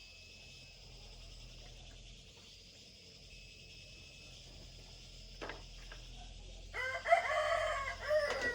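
A rooster crows once, a single call of under two seconds near the end, over faint steady background noise.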